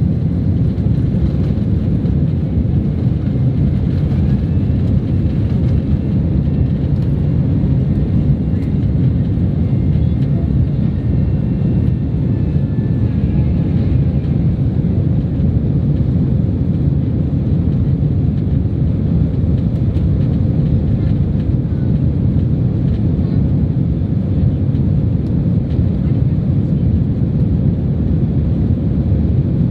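Steady low rumble inside the cabin of a Boeing 767-300 airliner: engine and air noise heard from an economy seat, even throughout.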